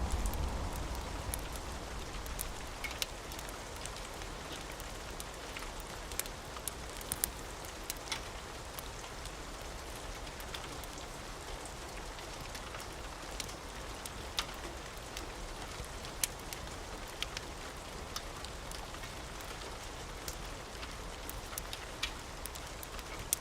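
Steady rain falling, with scattered sharp ticks and pops throughout, and the low rumble of thunder dying away in the first couple of seconds.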